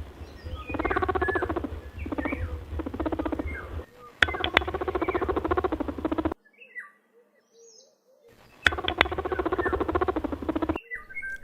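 Rabbit making repeated buzzy, rapidly pulsing squeaks in bursts of one to two seconds, with a few faint high bird chirps. The sound drops out for about two seconds in the middle, then resumes.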